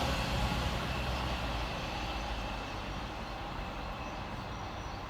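Cross Country Class 221 Voyager diesel unit fading into the distance after passing fast through the station, its low rumble dying away steadily.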